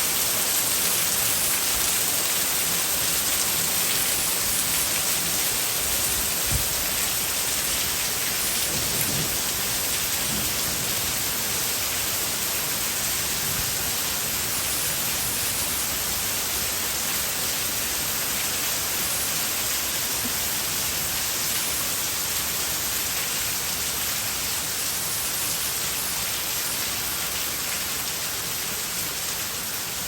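Heavy rain pouring steadily, an even dense hiss that eases slightly toward the end, with one brief knock about six seconds in.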